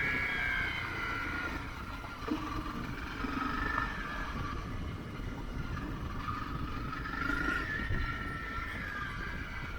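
Motorcycle engine running while riding, its pitch rising and falling with the throttle, over steady wind and road rumble.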